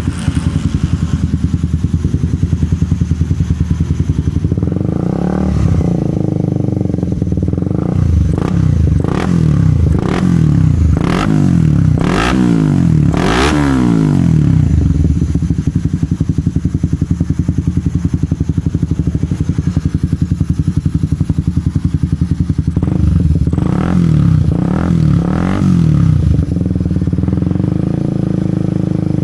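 Motorcycle fitted with an Indolingga aftermarket racing exhaust, idling with a rapid steady pulse and revved in a series of throttle blips. The first run of blips comes about 5 to 14 seconds in, with the strongest around 12 to 14 seconds, and a second short run comes near the 24-second mark before it settles back to idle.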